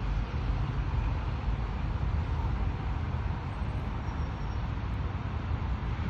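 Steady low rumble of outdoor background noise, uneven from moment to moment.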